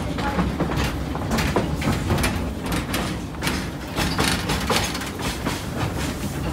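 Narrow gauge railway carriage on the move: a steady low rumble of running gear, with irregular clicks and clunks of the wheels passing over the rail joints.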